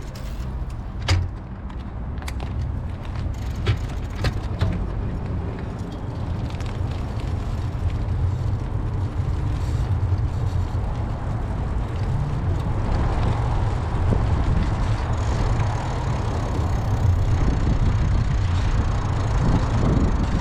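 Wind buffeting the microphone and road rumble from a moving bicycle, with a few sharp clicks or rattles in the first few seconds. The rushing grows steadily louder, as if picking up speed.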